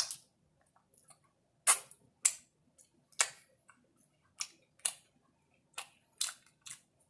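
Close-up chewing of crispy fried food, a dozen or so short crisp crackles at irregular intervals.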